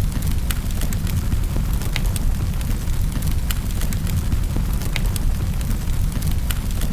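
Wood fire crackling in a fireplace: a steady low rumble of burning with sharp crackles and pops scattered through it, roughly one a second.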